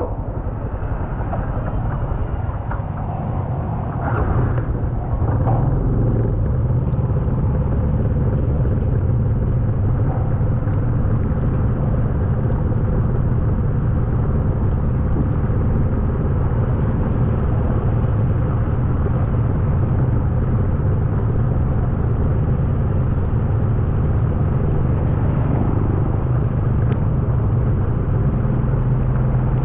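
A vehicle engine running with a steady low rumble, over the continuous rush of floodwater at a flooded ford; the sound is a little quieter for the first few seconds, then holds level.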